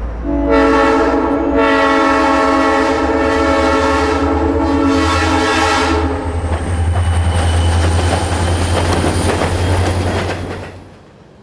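Diesel locomotive air horns mounted on a pickup truck, sounding one long multi-note chord that stops about six seconds in. A low rumble and a rushing noise carry on after it and fade out near the end.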